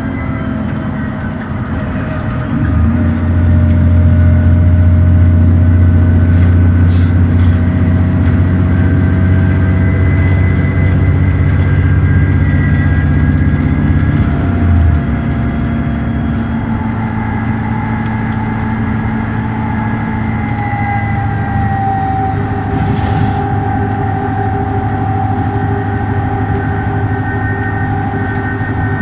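Dennis Trident ALX400 double-decker bus's diesel engine pulling hard under kickdown (full throttle) from about three seconds in. Around halfway the gearbox changes up and the engine drops to a lower, steady note. A whine from the driveline runs over it.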